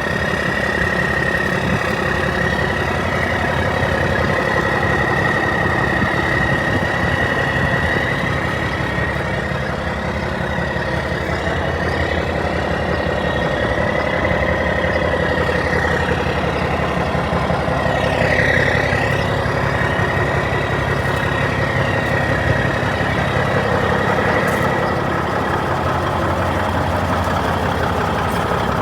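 1996 Freightliner FLD120 semi truck's diesel engine idling steadily, with a thin high whine held over the low engine drone.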